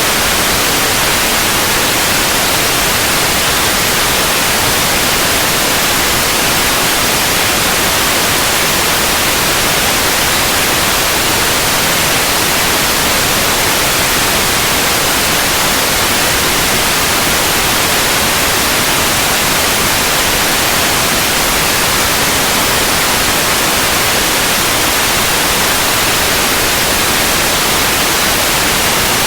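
Steady, unbroken white noise: an even hiss, brightest in the upper range, with no change in level.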